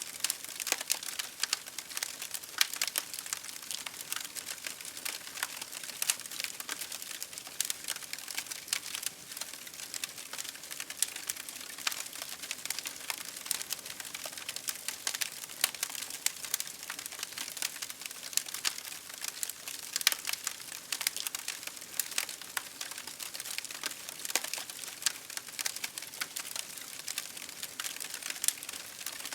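Campfire burning, wood crackling and popping in many small sharp snaps over a steady hiss.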